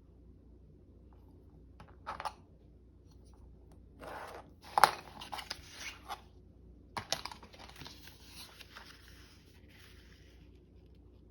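Sheets of paper being handled and worked, rustling and scraping in short bursts about two seconds in, then from four to six seconds with one sharp loud crackle, and again from seven to ten seconds.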